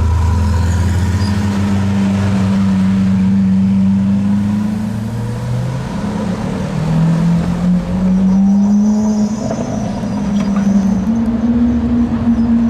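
Ferrari F40's twin-turbo V8, breathing through a catless Tubi exhaust, running at low revs with a steady deep note. Its pitch dips and then rises again about halfway through as the throttle changes.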